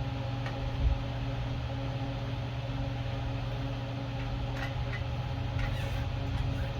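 A steady mechanical hum in the background, with a few light clicks and taps of small metal parts being handled as bolts are fitted through the carburetor plate and housing; one slightly louder knock about a second in.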